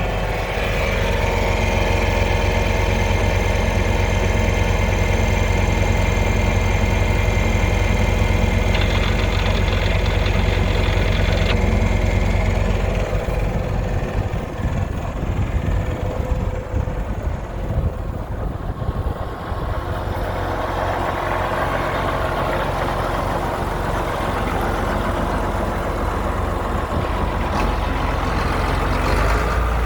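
John Deere 8320 MFWD tractor's six-cylinder diesel engine running steadily. About halfway through, the sound changes and becomes rougher and noisier.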